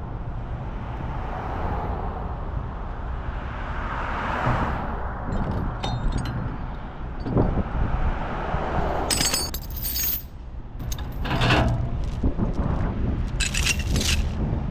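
Steel tie-down chains clanking and rattling as they are pulled off and handled, several sharp metallic clashes in the second half, over a diesel engine idling steadily.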